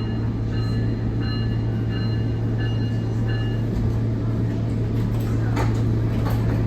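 Interior of a SMART diesel multiple-unit train: a steady low engine hum and running noise. A run of evenly spaced high electronic beeps sounds during the first few seconds.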